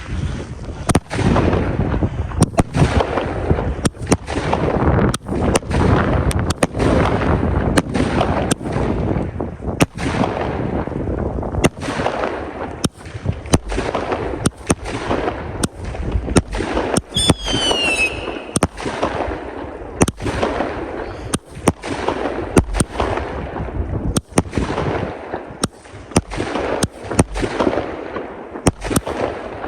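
Consumer fireworks going off in a long run of sharp bangs, roughly one or two a second, over continuous crackle. About 17 seconds in, a short whistle falls in pitch.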